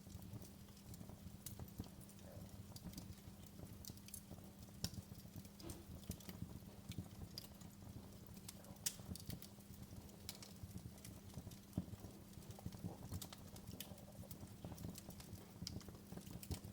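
Wood fire crackling: irregular sharp pops and snaps, a few louder ones standing out, over a low steady rumble.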